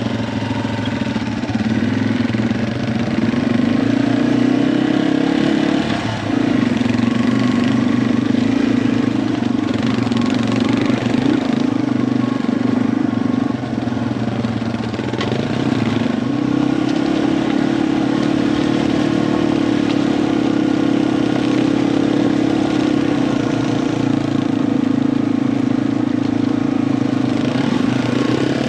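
Yamaha TW200 trail bike's single-cylinder four-stroke engine running while riding, its pitch stepping down and up a few times.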